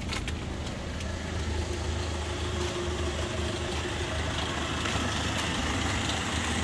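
Toyota Kijang LGX's 1.8-litre EFI four-cylinder petrol engine idling steadily, which the seller calls in very good condition. It is heard first from the driver's seat, then, after about two seconds, from outside at the front of the car.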